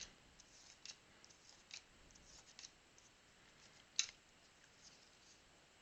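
Faint ticks and light rustles of trading cards being handled and flipped through a pack, with one sharper click about four seconds in.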